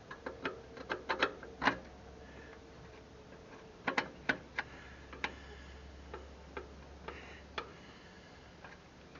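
Hand tools working on the tractor: irregular sharp clicks and taps, a quick cluster in the first two seconds, another around four seconds in, then a few single clicks.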